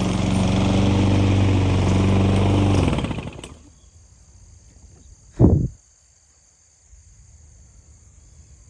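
Small petrol engine of a grass cutter running steadily, then winding down and stopping about three seconds in as it is shut off. A single low thump follows a couple of seconds later.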